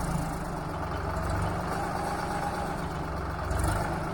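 Tractor engine running steadily at a low, even hum, with a brief rush of noise about three and a half seconds in.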